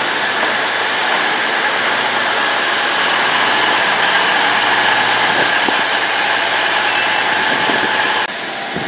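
Diesel passenger trains running at a station platform: a steady engine and fan drone with a few high steady whining tones. The sound drops off abruptly near the end.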